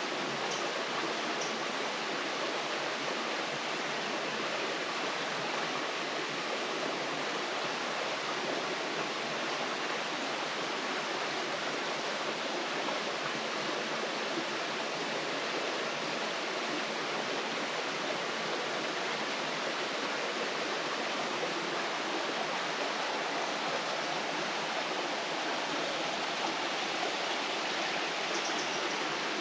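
Mountain river water rushing, a steady, even rush that does not change.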